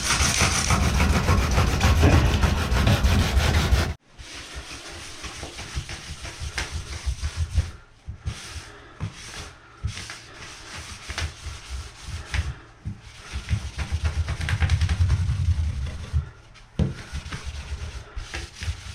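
80 grit sandpaper rubbed by hand over the smooth bathtub surface in quick back-and-forth strokes, roughing it up so fiberglass resin will stick. It is loudest for the first four seconds, then cuts off abruptly and continues as a quicker run of separate strokes.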